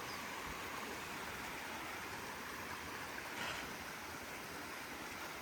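Stream water running, a steady even rush.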